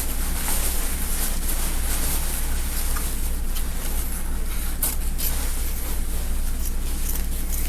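Steady low hum and hiss in the room, with a few faint clicks of scissors cutting through gown fabric, around the middle.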